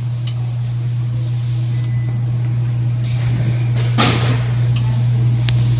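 Front-load washing machine running: a steady low hum that grows slowly louder, with a few light clicks and a knock about four seconds in.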